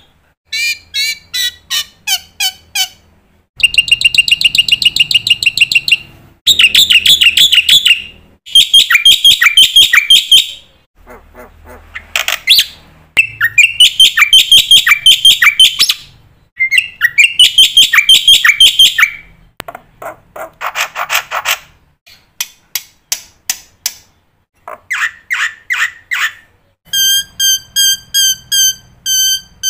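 Black-winged starling singing in loud bursts of rapid chattering and whistled, mimicked phrases, broken by short pauses. Near the end it gives a run of evenly spaced, clear repeated notes.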